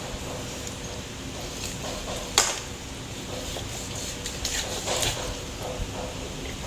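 Kitchen handling sounds: a few scattered clicks and knocks, one sharp knock about two and a half seconds in, over a faint steady hum.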